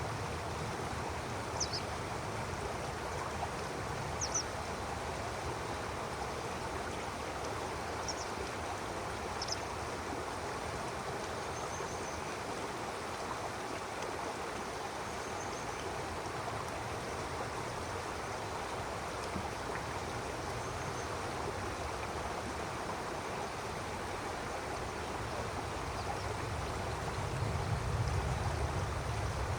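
Stream water flowing with a steady rushing sound, with a few brief high bird chirps in the first ten seconds. A low rumble swells near the end.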